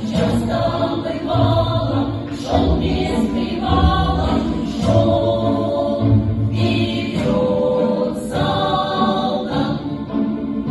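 Russian folk-song choir singing in several voices with musical backing.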